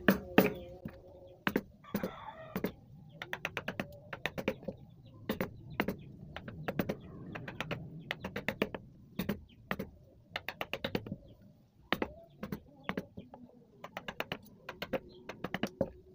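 Wood carving chisel struck with a wooden mallet, cutting into wood in quick runs of sharp taps with short pauses between them.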